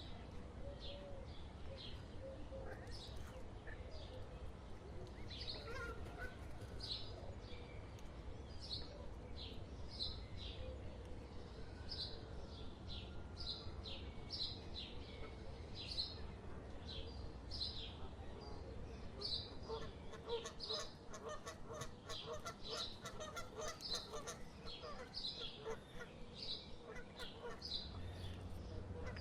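Birds calling: short high peeps repeated several times a second, joined about twenty seconds in by a lower honking call repeated rapidly, over a low steady rumble that drops away at the same point.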